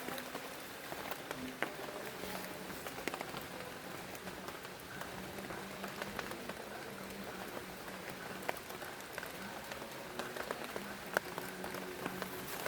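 Steady rain falling, with individual drops ticking sharply and irregularly on a nearby surface.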